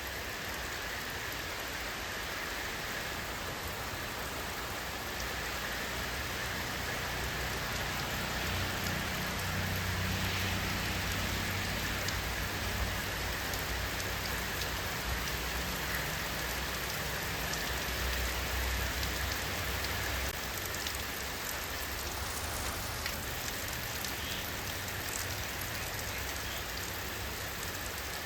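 Steady rain falling, an even hiss of drops on surfaces. A low rumble swells up about a third of the way in and fades out before two-thirds.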